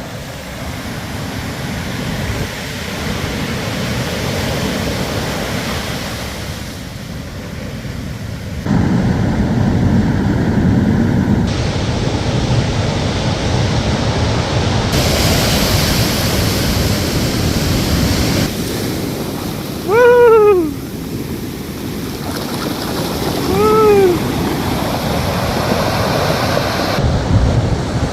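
Ocean surf washing in on the shore, with wind buffeting the microphone. Twice, about two-thirds of the way through and again a few seconds later, a short cry stands out, falling in pitch.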